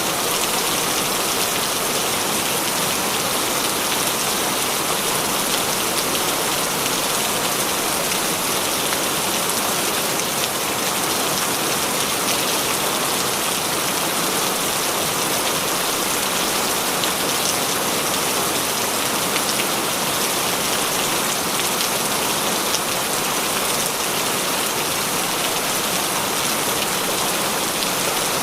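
Steady heavy rain falling, with the hiss of many drops hitting a surface.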